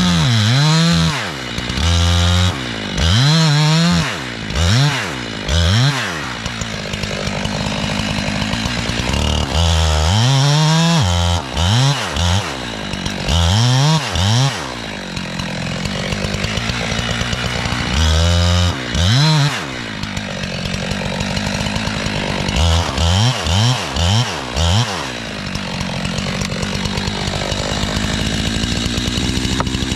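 Jonsered chainsaw revving up and down over and over, between longer stretches of steady running under load as it cuts into a pine trunk to fell it.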